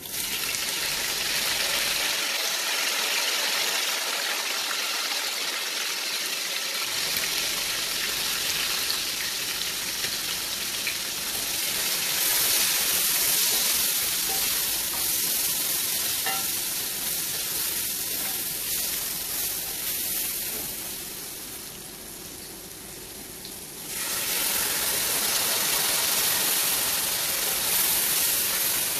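Sliced tomatoes sizzling in hot oil with fried onions. The sizzle starts suddenly as they go in, eases briefly about three quarters through, then comes back up.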